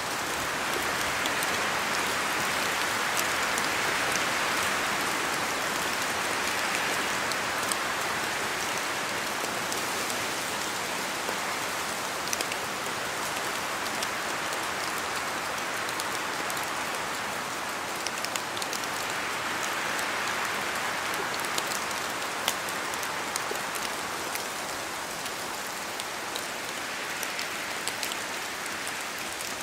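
Steady rain falling in a forest, with many single drops ticking down from the trees. Wind swells and eases every several seconds.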